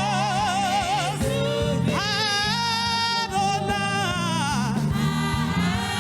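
Gospel worship singing: one voice holds long, drawn-out notes with a wide vibrato, sliding up to a higher sustained note about two seconds in, over steady low instrumental chords.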